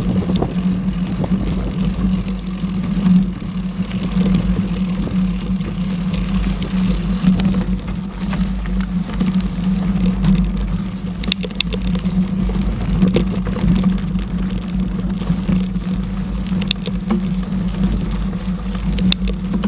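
A mountain bike rolling along a forest trail: a steady rumble of tyres and frame with wind on a body-mounted microphone, and a few sharp clicks past the middle and near the end.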